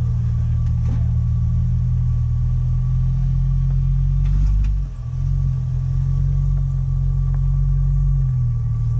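Jeep Wrangler engine running at low revs as it crawls over boulders, a steady low rumble with a brief dip about five seconds in.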